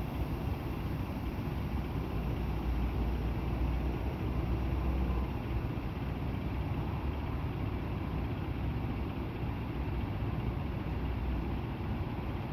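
Semi-truck diesel engine running at low speed, a steady low rumble that swells slightly a few seconds in.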